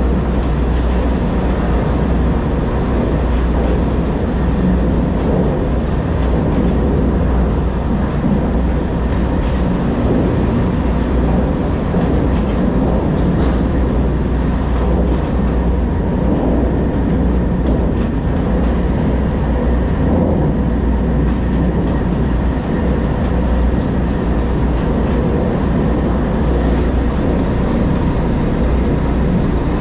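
Semi truck under way: a steady drone of engine and road noise, heavy in low rumble.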